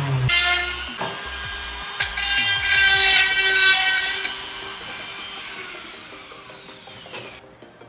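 An electric motor screeching with a high ringing whine under load. About seven seconds in, its pitch slides down as it winds down and stops.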